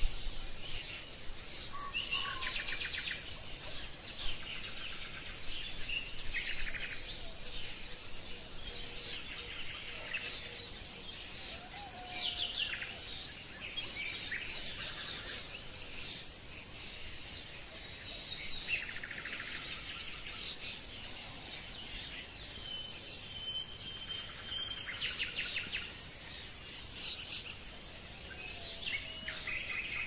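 Several birds chirping and singing, with repeated rapid trills and a few short whistled notes, over a steady outdoor hiss.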